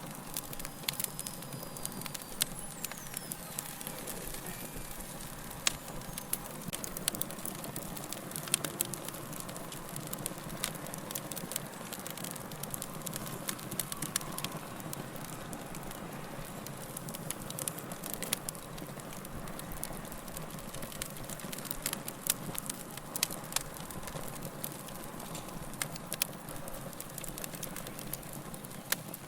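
Wood fire burning with a steady hiss and frequent sharp crackles and pops as the logs burn.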